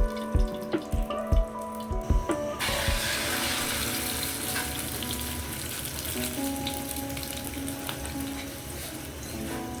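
Water running from a tap into a sink, starting about two and a half seconds in and running steadily, over background music.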